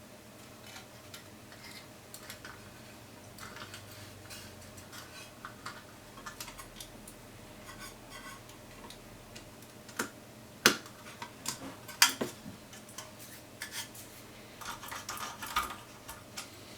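Small clicks, taps and light metallic clinks of camera parts and small tools being handled at a bench, with a few sharper, louder clicks about ten and twelve seconds in and a short rustling patch near the end.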